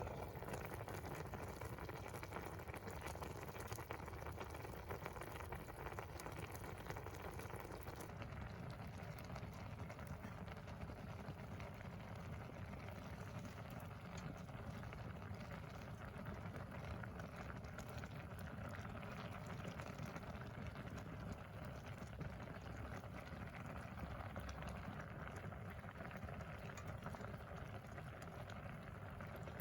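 Wood fire burning in a secondary-combustion wood stove: a steady hiss with dense, fine crackling, its tone shifting slightly about eight seconds in.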